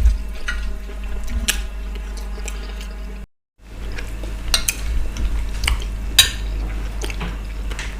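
Cutlery clinking and scraping against a plate during eating, in scattered short clicks. The audio cuts out completely for a moment a little over three seconds in.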